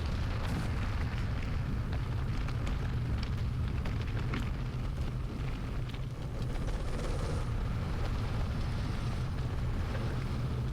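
Steady low rumble of wind buffeting the microphone while riding a mountain bike on a forest road, with a few faint clicks and rattles.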